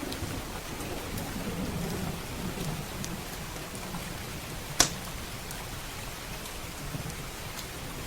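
Steady rain with the tail of a low thunder rumble fading out over the first few seconds. A wood fire crackles with faint ticks and gives one loud, sharp pop just under five seconds in.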